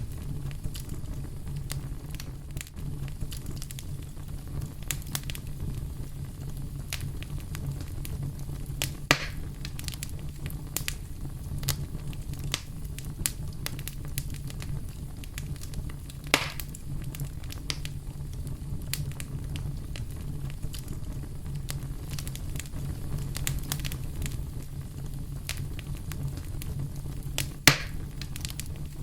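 Wood campfire crackling, with frequent small snaps over a steady low rumble and three louder pops spread through.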